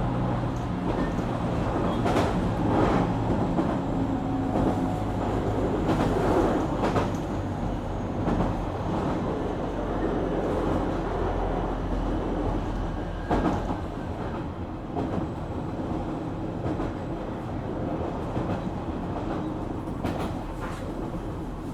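JR Kyushu 817 series electric train running between stations, heard from inside the car. A steady running rumble is punctuated by the wheels clicking over rail joints, and a low hum fades about two thirds of the way through.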